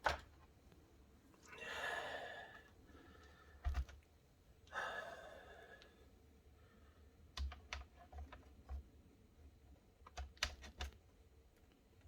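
Small clicks and taps from laptop parts being handled, in a quick cluster in the second half, with two long sighs about two and five seconds in.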